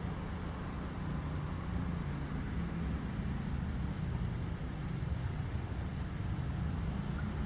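Steady low rumble of a distant vehicle, growing slightly louder toward the end.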